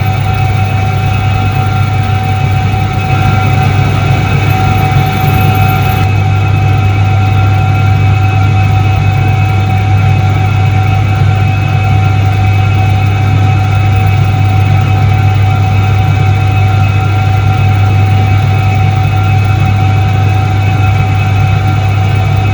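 1978 Soviet Iset-3 washing machine running steadily: a loud, even electric-motor hum with a constant whine above it, growing slightly louder about three seconds in.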